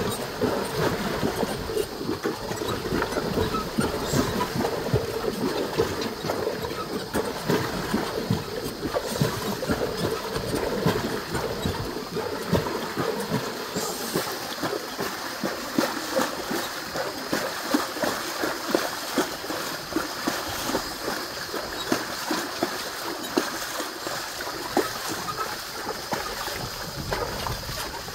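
Water splashing and sloshing as a carabao-drawn cart goes through shallow water, with a continual irregular clatter of knocks from the cart and hooves.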